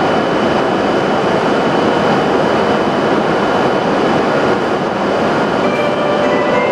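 Steady, loud running noise of an E7/W7-series Shinkansen train standing at the platform, with a few faint held tones of the platform departure melody above it.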